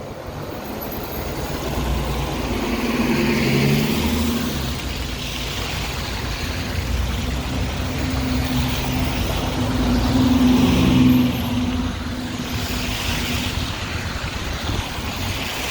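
Road traffic with a large vehicle's engine humming close by. The hum grows louder about four seconds in and again around eleven seconds.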